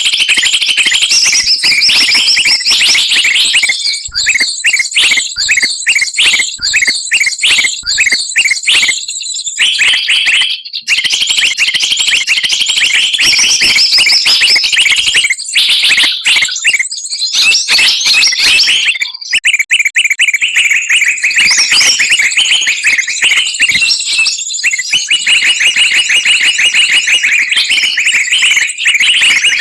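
Dense, noisy chorus of many small songbirds layered together as a bird-trapping lure call: rapid high chips, short repeated notes and fast trills overlapping without a break. A steadier fast trill carries through the last third.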